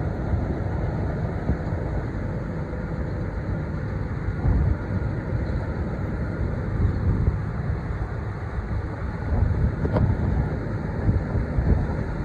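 Steady low rumble of a passing cargo ship's engine, with wind buffeting the microphone.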